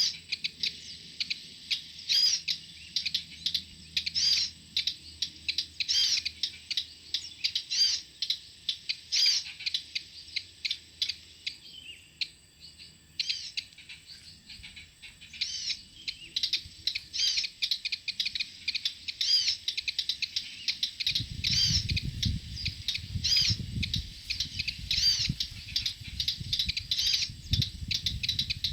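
Small songbirds chirping in quick, sharp, repeated calls, several a second. About three quarters of the way in, a low rustling rumble joins them and carries on to the end.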